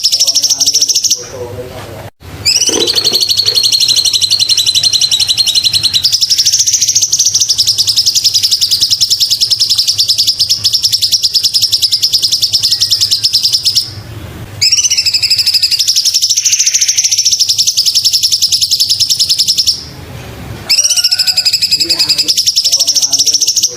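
Cucak cungkok song: long, loud, very rapid high trills held for several seconds at a time. They break off briefly about a second in, again about 14 seconds in and again about 20 seconds in.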